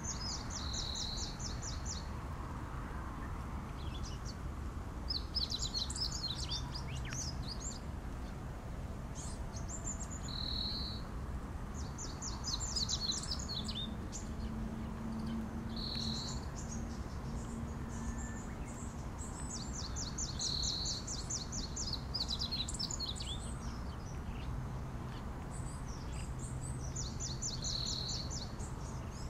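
A wild songbird singing: short phrases of rapid high notes repeated about every six to seven seconds, with single short calls between them, over a steady low rumble.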